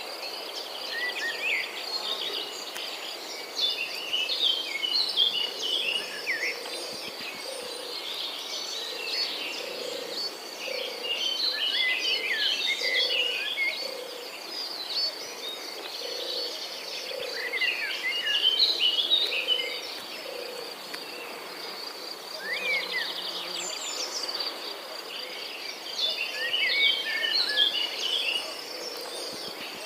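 Natural ambience: a steady high insect trill like crickets, with birds singing in short varied phrases every few seconds and a lower call repeated in a series.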